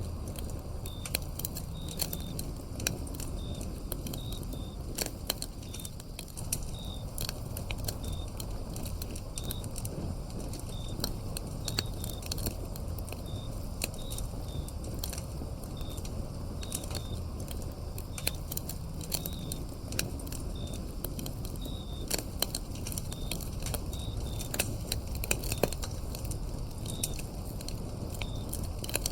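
Wood fire crackling, with frequent sharp pops over a low, steady rush, while crickets chirp in short high notes repeating through it.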